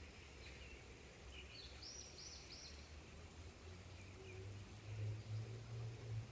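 Birds calling faintly in an outdoor ambience, with a run of three quick high notes about two seconds in and a few scattered chirps. A low rumble underneath grows louder near the end.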